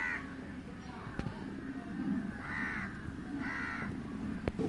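Three short bird calls, one right at the start and two more about a second apart near the end, over a steady low background, with two sharp clicks between them.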